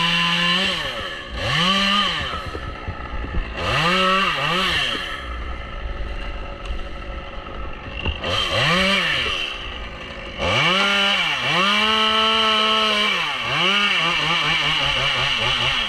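Stihl two-stroke chainsaw being throttled up and down in quick bursts. It is held at high revs at the start and again for a couple of seconds about two-thirds of the way in, then drops to a lower, steadier speed near the end.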